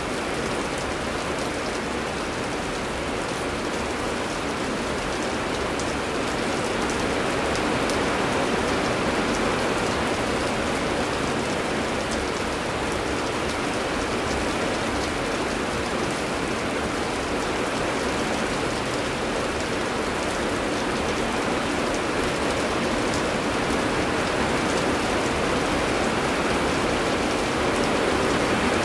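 Heavy rain falling steadily, an even dense hiss with fine drop patter throughout.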